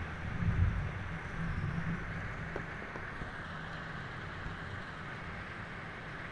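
Steady rain falling, a constant even hiss. Under it is a low rumble that swells about half a second in, then settles after a couple of seconds.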